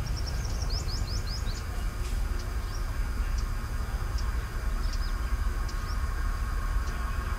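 Low steady rumble of an approaching WAP-4 electric locomotive and its train, with birds chirping over it: a quick run of rising chirps about a second in, then scattered short calls.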